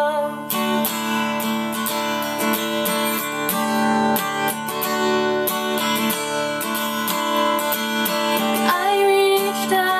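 Acoustic guitar strummed in a steady rhythm, an instrumental break between sung lines.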